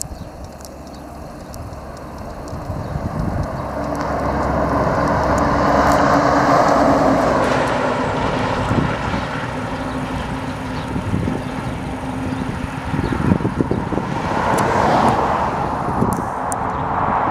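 Trucks passing on the road: tyre noise and engine drone build to a peak about six seconds in and fade, then a second vehicle swells past near the end.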